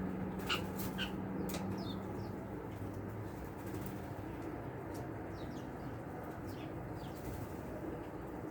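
Small songbirds giving short, faint, high chip calls, with a few sharp clicks in the first couple of seconds. A low steady hum underneath fades out a few seconds in.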